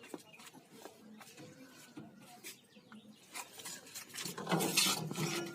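Faint scattered clicks and taps of parts being handled inside a washing machine cabinet, then louder rustling and scraping from about four seconds in.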